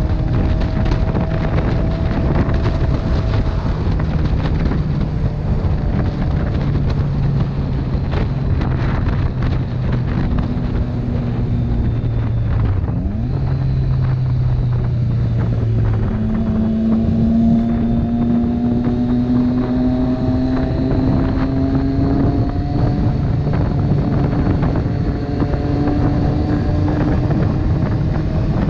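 Motorcycle engine running at road speed under heavy wind noise on the microphone. Its pitch climbs slowly, breaks off about halfway through, and comes back at a different pitch, as the throttle and gears change.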